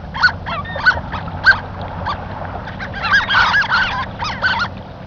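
Harlequin ducks calling: a series of short, arched squeaky calls, with several birds calling over one another about three seconds in.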